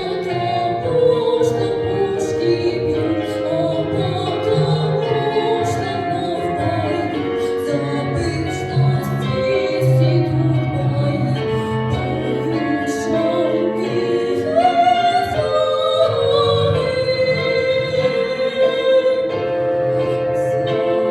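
A female vocalist singing a slow song over instrumental accompaniment, holding one long note near the end.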